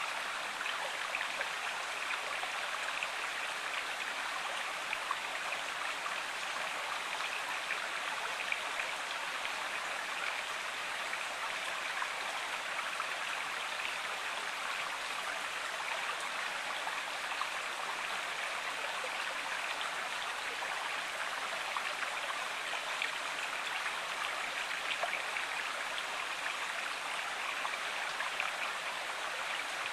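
Running water of a river or stream, a steady, even rush with faint droplet ticks.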